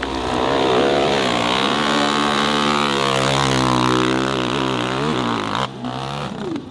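Dirt bike engine held at high revs, its pitch wavering slightly. It stops abruptly about five and a half seconds in.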